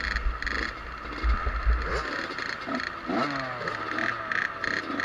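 Small two-stroke motocross bike engines running, with one revving up sharply in pitch about three seconds in. A heavy low rumble sounds in the first two seconds.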